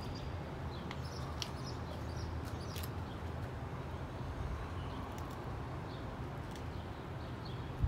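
Small birds chirping faintly now and then over a steady low outdoor rumble, with a few light clicks.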